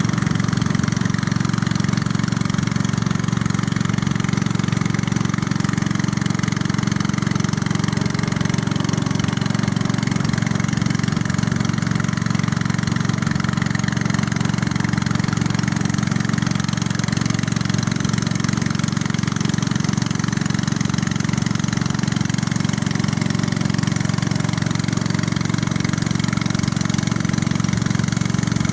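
Small boat's engine running steadily at an even speed, a continuous low drone without changes.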